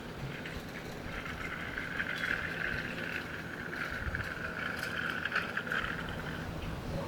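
Common gallinules giving a run of rapid, chattering calls over about five seconds: the adults' location calls to their chick.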